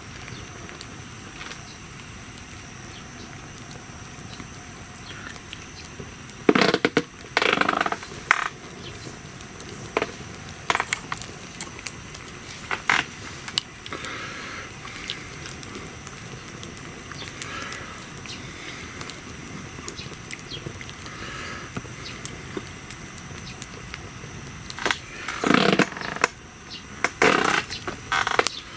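Wood fire crackling and popping over a steady hiss, with two spells of louder scraping and crunching, about six seconds in and near the end.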